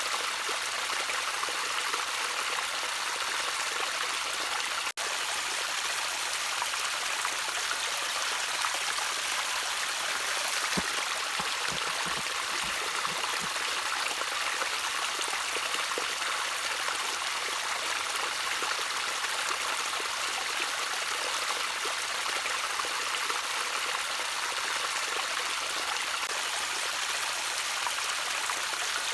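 Gentle stream of water trickling steadily over stones, with an even splashing hiss. It drops out for an instant about five seconds in.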